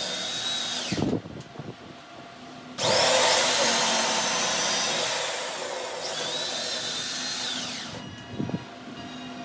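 An electric power tool runs in two bursts with a whining motor and a loud hiss. It stops about a second in, starts up again near the third second and winds down near the end, its motor falling in pitch as it coasts to a stop.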